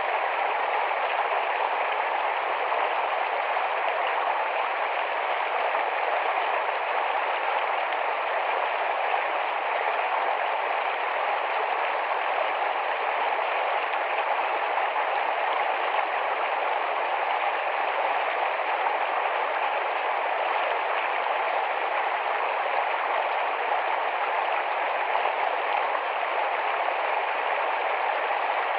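Small, fast forest stream rushing and babbling over stones, a steady even rush of water.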